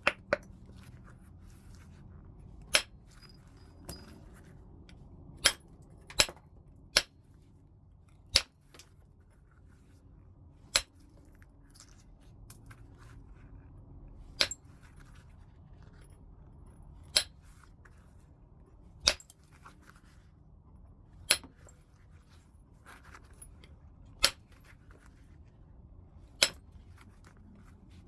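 Heat-treated Burlington chert being knapped by percussion: sharp, glassy clicks as flakes are struck off, a dozen or so spaced irregularly one to four seconds apart.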